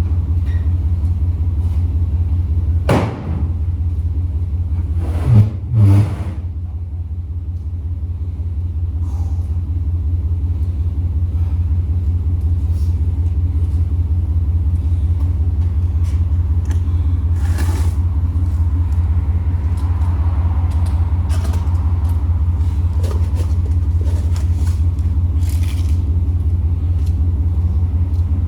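A vehicle engine running steadily at idle, with a clunk about three seconds in and two louder knocks around five to six seconds in.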